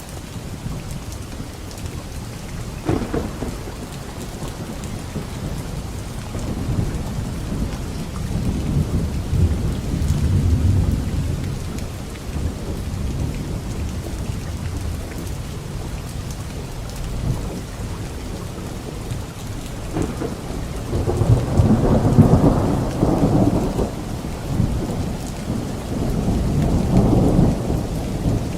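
Steady rain falling, with thunder: a sharp crack about three seconds in, then rolling rumbles that swell and fade several times, the loudest a little past the middle.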